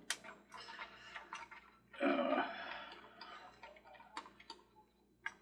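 Small screws being loosened with a screwdriver from the plastic base of a Mr. Christmas Ferris Wheel: a scatter of sharp ticks and clicks, with a longer scraping noise about two seconds in.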